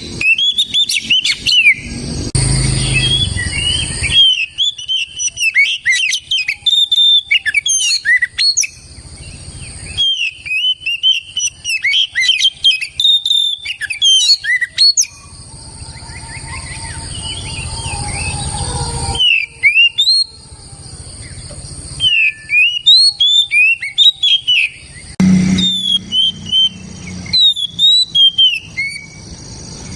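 Oriental magpie-robin (kacer) singing loud: a long run of quick, varied whistled notes and slurs broken by short pauses between phrases.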